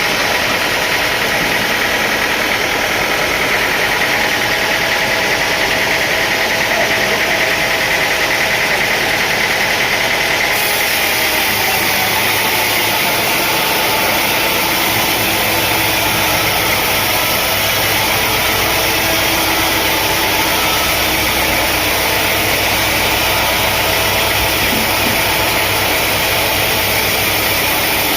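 Sawmill machinery running steadily with a dense, continuous engine noise. About eleven seconds in, the sound shifts and a deeper, lower hum joins it.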